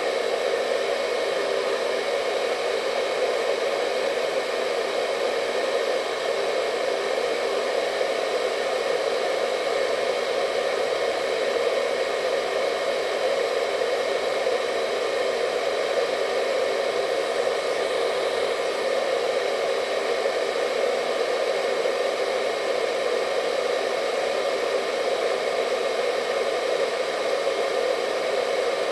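Hair dryer running with a constant hum and airy rush, strongest in the mid-low range, with faint steady whining tones above it.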